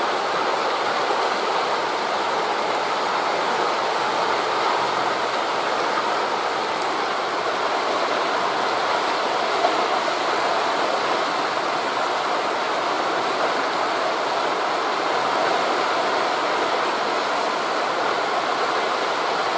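Steady rushing of wind through forest leaves blended with distant surf, an even wash of noise with no separate wave breaks standing out.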